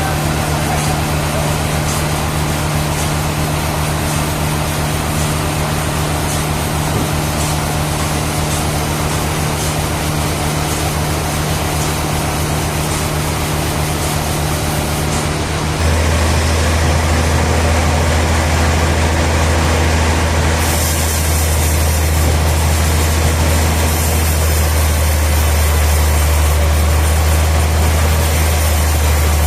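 Sawmill machinery running with a steady engine drone. About halfway through the hum abruptly turns deeper and a little louder.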